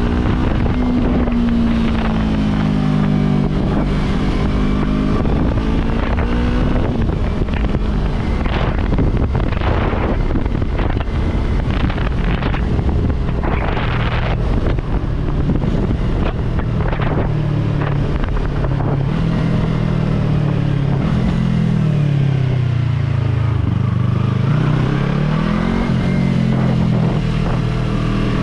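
Yamaha R3 motorcycle's parallel-twin engine under way, revs rising and falling as it rides, over wind noise on the microphone.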